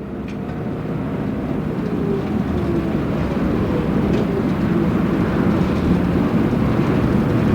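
City route bus's diesel engine pulling away from a stop, heard from inside the cabin, growing steadily louder as the bus gathers speed.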